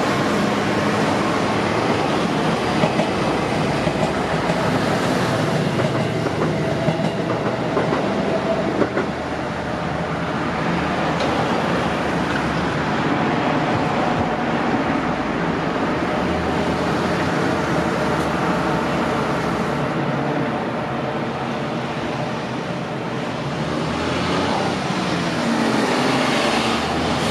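Electric train running along the JR Minobu Line, a steady rumble of wheels on rail with clickety-clack over the rail joints and a faint hum.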